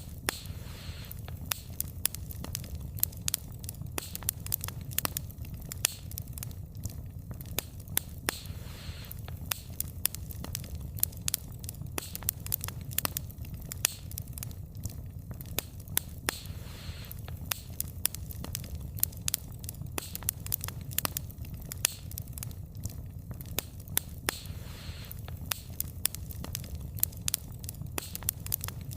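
Wood fire burning with a steady low rumble and frequent irregular crackles and pops from the burning wood.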